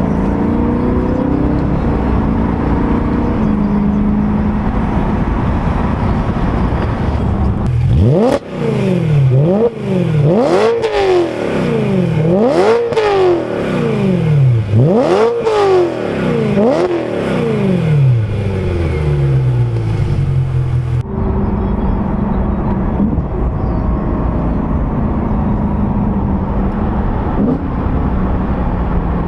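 BMW E92 M3's naturally aspirated 4.0-litre V8 engine running. It is revved hard several times between about 8 and 20 seconds in, the pitch climbing and falling about five times, and runs at a steady note before and after.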